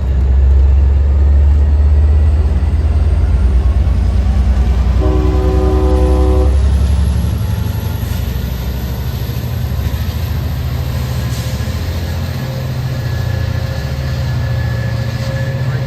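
EMD F59PHI diesel locomotive running hard as it pushes a passenger train past and away, its low engine rumble easing after about seven seconds. A train horn blows once for about a second and a half, about five seconds in.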